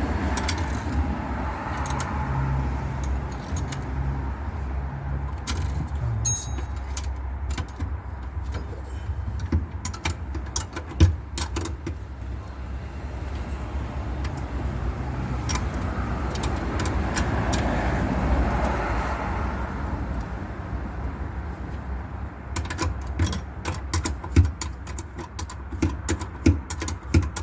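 Metal hand tools and parts clicking and clinking during work on a car, over a steady low hum, with a rushing sound swelling twice, once early and once past the middle. Near the end the clicks quicken into a rapid run.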